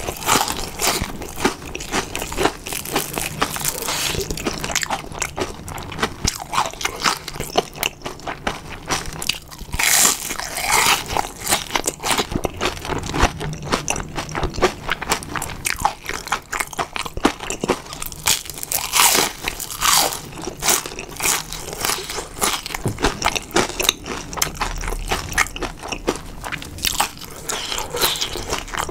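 Close-miked biting and chewing of a deep-fried breaded shrimp, the crisp batter crunching and crackling in rapid, irregular bites. Louder crunches come about ten seconds in and again near twenty seconds.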